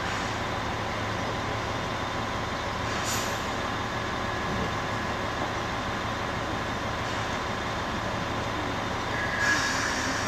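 A train standing at the station with steady running noise and a low hum, broken by two short hisses, one about three seconds in and a louder one near the end.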